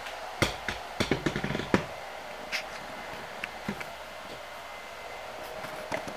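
A quick run of sharp knocks and clicks, as of tools or parts being handled during a dishwasher installation, from about half a second to two seconds in, then a single knock and a few faint ticks, over a steady low hum.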